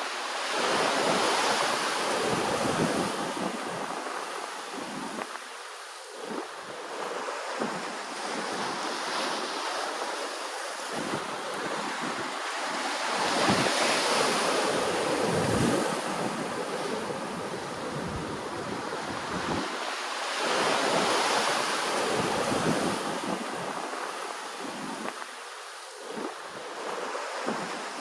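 Ocean waves washing in, a steady rush that swells louder and fades again every several seconds as each wave arrives.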